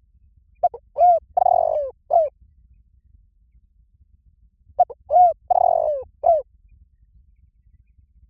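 Spotted dove calling: two phrases of four cooing notes each, about four seconds apart, the third note in each the longest and falling in pitch.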